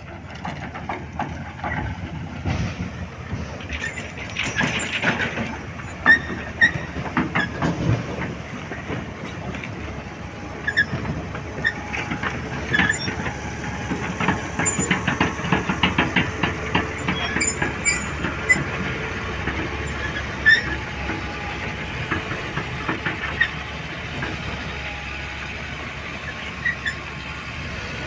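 Heavy earthmoving machinery working, most likely an excavator: an engine runs under a dense stream of irregular metallic clanks and knocks from its steel parts and tracks.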